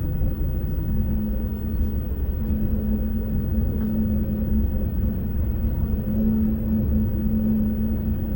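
Inside a Lastochka electric train (Siemens Desiro RUS) running along the line: a steady low rumble of wheels and running gear, with a steady hum that drops out briefly a few times.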